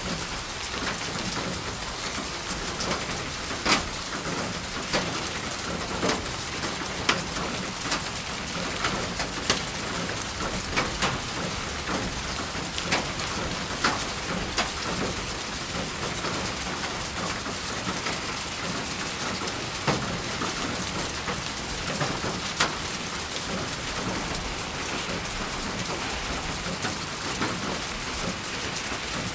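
Steady heavy rain falling on a surface, a dense even hiss with scattered louder individual drops striking close by.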